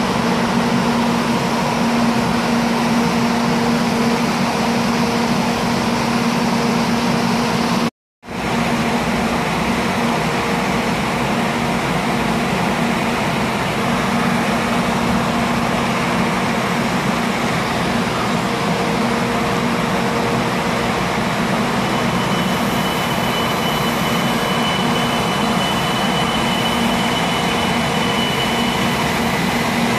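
A 700 series Shinkansen train moving slowly past the platform, with a steady rumble and a constant low electric hum. A high steady whine joins near the end. The sound drops out briefly about eight seconds in.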